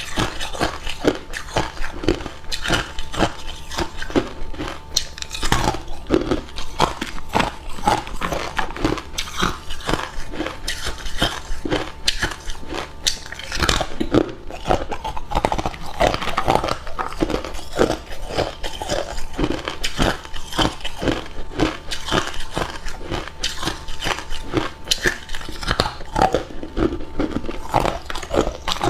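A person biting and chewing hard ice cubes close up, a rapid, irregular run of sharp crunches and cracks several times a second.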